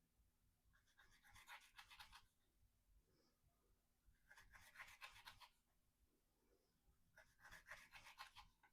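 Knife blade with a coarse, toothy edge slicing through rope. There are three cuts, roughly every three seconds, each a short scratchy rasp of fibres parting under the blade.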